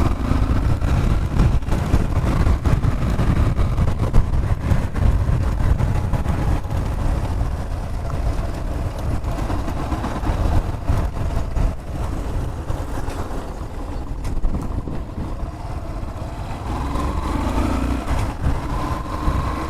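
Yamaha Fazer 150 motorcycle's single-cylinder engine running steadily while being ridden.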